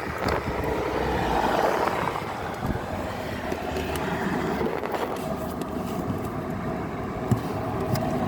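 Steady rushing noise of a car running, with a faint steady hum and a light click about seven seconds in.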